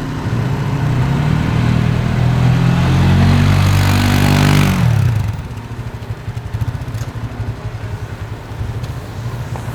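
A large engine running close by, growing louder and rising a little in pitch, with a rushing hiss building over it. Both drop off sharply about five seconds in, leaving a lower engine rumble.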